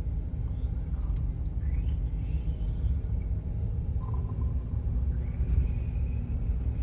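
Low, steady rumble of a lifted Toyota pickup truck driving, its engine and road noise heard from inside the cab.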